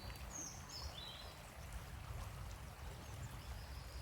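Quiet outdoor ambience: a low, steady rumble, with a few short, high bird chirps in the first second or so.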